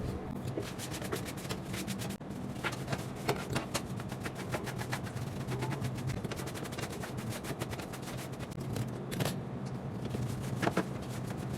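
Rapid, irregular clicking and tapping of plastic table-fan blades and guards being handled and wiped in a sink, over a steady low hum.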